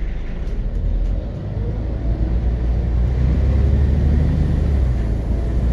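Scania DC9.01 five-cylinder diesel engine of a Scania Omnicity city bus running under way, heard from inside the cabin as a deep rumble that grows louder about two seconds in and then holds steady.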